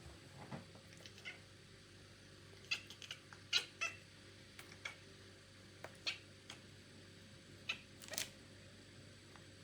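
Sphynx cat giving a string of short, high mews, about ten in all, coming irregularly from a few seconds in until near the end.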